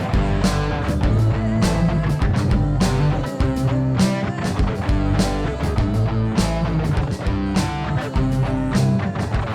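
Worship band music with a steady drum beat, bass and electric guitar, an instrumental stretch with no singing.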